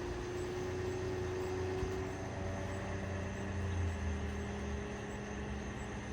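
Steady low engine rumble with a held hum over it.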